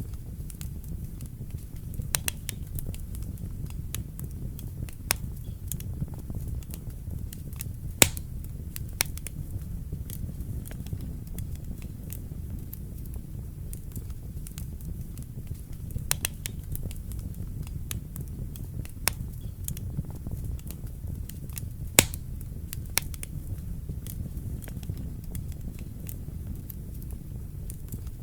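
Wood fire burning in a fireplace: a steady low rumble of flame with scattered sharp crackles and pops, two of them louder, about a third of the way in and again near the three-quarter mark.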